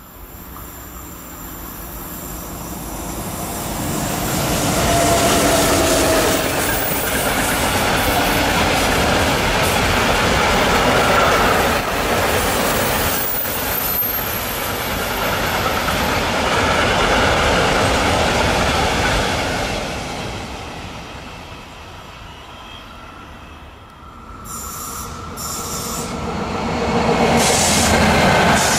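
Long freight train of open box wagons rolling past: steady wheel-on-rail rumble with brief wheel squeal, swelling a few seconds in and dying down about twenty seconds in. About four seconds before the end a second train, led by an ÖBB locomotive, comes by and the rumble swells again.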